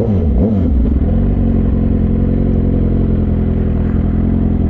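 Straight-piped 2006 Suzuki GSX-R600 (K6) inline-four with no catalytic converter. Its pitch dips and rises once in the first second or so, then it runs at a steady low engine speed.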